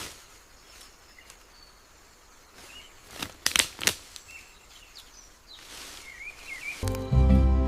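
Forest ambience: a few short, wavering bird chirps over a low outdoor background, with a quick cluster of sharp cracks a little past halfway. Music starts near the end.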